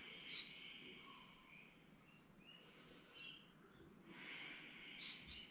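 Faint bird chirps, a few short scattered calls over quiet room tone.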